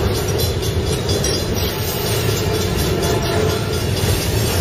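Freight train of loaded flatcars passing at close range: a steady, unbroken noise of steel wheels running on the rails.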